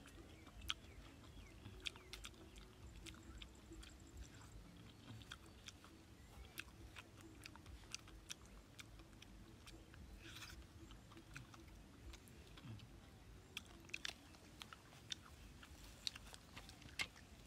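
Faint, close chewing and biting: a person eating, with small crunches and sharp clicks, more clicks near the end.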